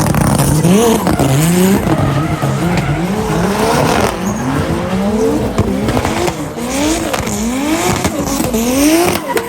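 Drift car engine revving hard and dropping back over and over, about once a second, as the driver works the throttle through a drift. Tyres squeal underneath the engine.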